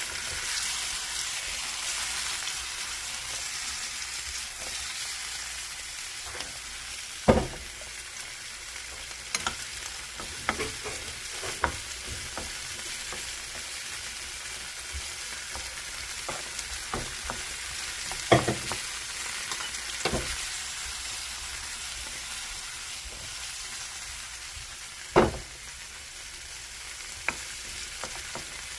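Food sizzling in hot oil in a frying pan while it is stirred, a steady hiss broken by sharp knocks of the utensil against the pan, three of them louder than the rest.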